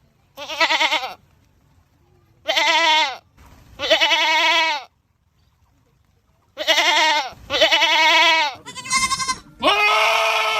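Goats screaming: a run of about seven loud, wavering bleats, each under a second long, with short silent gaps between them. The last few come closer together.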